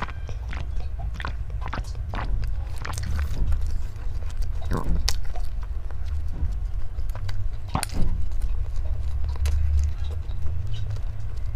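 Close-miked eating sounds: a person chewing and biting, with many short, crisp clicks at irregular intervals over a steady low hum.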